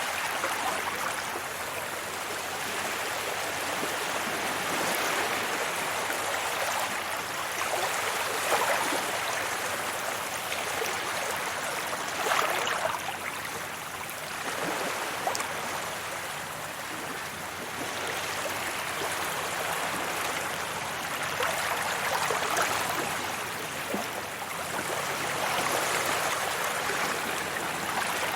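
Sea waves washing onto a beach: a steady rush of surf that swells and eases every few seconds, with louder breaks about 8 and 12 seconds in.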